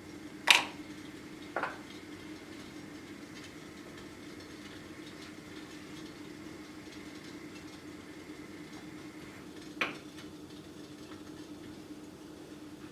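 Three sharp clinks of kitchenware being handled, the first, about half a second in, the loudest, another just after, and a last one near ten seconds, over a steady low hum.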